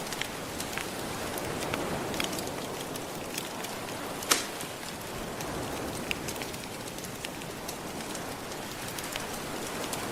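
Wood fire crackling with scattered sharp pops, one louder pop about four seconds in, over a steady wash of gentle ocean waves.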